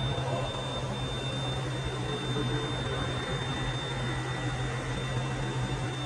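Hot plate plastic welding machine running: a steady low hum with a thin, constant high whine above it.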